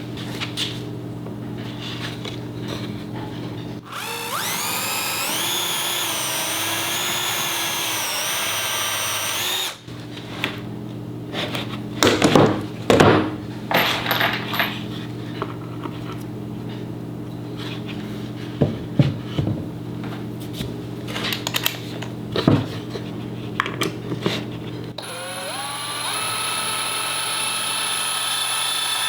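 Power drill running in two spells, its whine climbing in steps as the trigger is squeezed, with sharp knocks and clatter of handling between the runs. A steady low hum lies underneath throughout.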